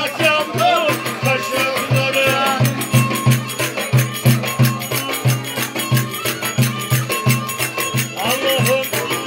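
Turkish folk dance music with a steady low drum beat, about three hits a second, and a wavering melody line above it.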